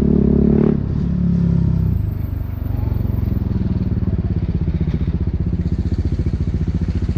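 BMW G 310 R's single-cylinder engine through an Akrapovic racing exhaust, revved near the start, then falling back to an even, pulsing idle.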